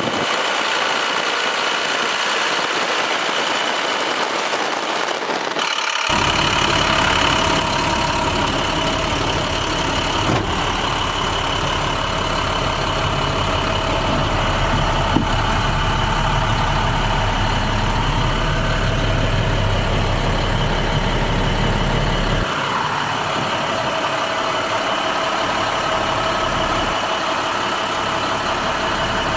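International MaxxForce DT inline-six diesel engine of a 2015 International 4300 truck idling steadily, with a steady high whine over it. A deeper low rumble comes in about six seconds in and drops away again around twenty-two seconds.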